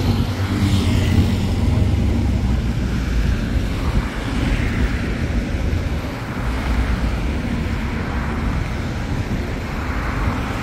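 Electric commuter trains running along the tracks, a steady low rumble with background traffic noise.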